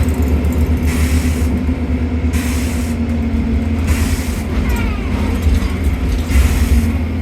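Inside a London double-decker bus on the move: a loud, steady engine and road rumble with a held drone. About halfway through, a few faint whines glide up and down.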